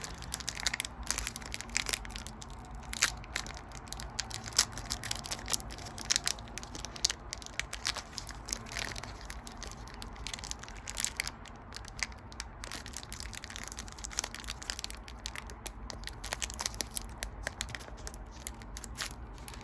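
Pokémon booster pack's foil wrapper crinkling and tearing, with cards being handled: a running series of small crackles and sharp clicks.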